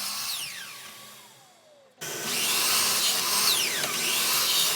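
Electric chop saw cutting MDF and winding down, its motor whine falling in pitch as it fades. About two seconds in it cuts off sharply and a louder saw run starts, with falling whines again near the end.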